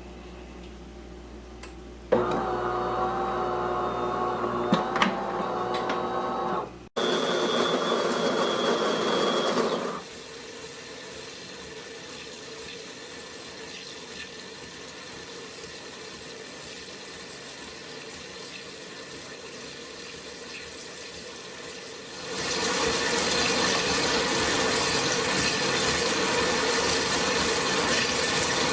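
Fully automatic espresso machine running: a mechanical whir and water and pump noise in several separate stretches that start and stop abruptly. The loudest is a steady whir over the last six seconds.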